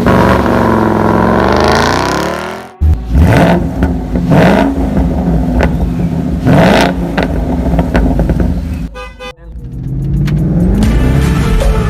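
Ford Mustang GT's 5.0 V8 engine revving, its pitch falling and then rising in several blips, then running more steadily near the end. The sound breaks off sharply about three seconds in and dips briefly about nine seconds in.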